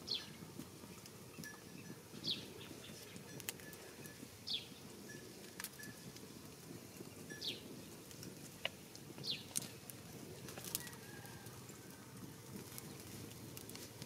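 A bird repeating a short, high call that falls in pitch, about every two seconds, over the soft crackle and occasional sharp snaps of a small wood fire.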